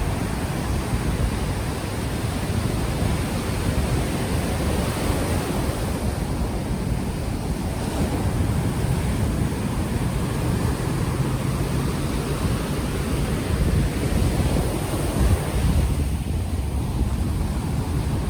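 Ocean waves washing onto the shore, with heavy wind buffeting on an unshielded microphone.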